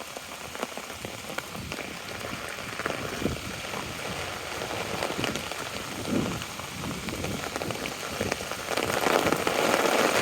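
Steady rain falling, with many separate drops ticking close by. It grows louder near the end.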